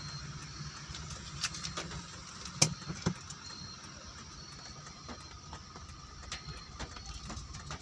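Rain falling steadily, with scattered sharp taps and a low background rumble; one tap about two and a half seconds in is the loudest.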